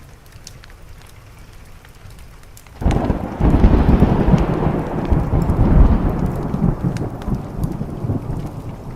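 A thunderclap breaks in suddenly about three seconds in and rolls into a long rumble that slowly fades. Underneath are rain and the faint crackle of a wood fire.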